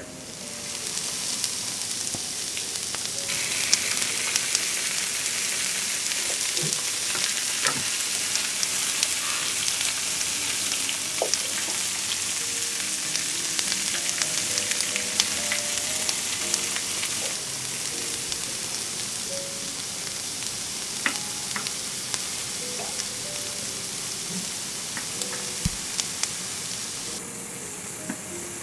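Vegetables (sliced tomatoes, carrots, kabocha squash, cherry tomatoes and asparagus) sizzling in a hot frying pan, a steady hiss with scattered crackling pops. The sizzle comes up about half a second in.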